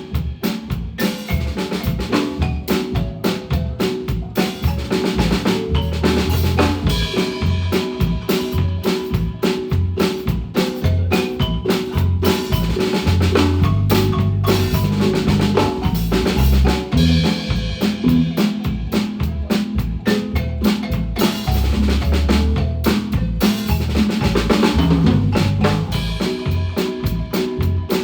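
Guatemalan marimba band playing live with a drum kit keeping a steady beat under the marimba.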